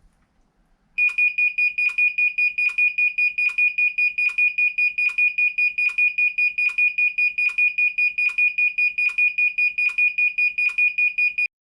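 Panasonic NP-45VS5S dishwasher's error alarm: one high-pitched electronic beep pulsing rapidly for about ten seconds, then cutting off suddenly. This is the beeping it gives with its lamps flashing when the heater relay has failed.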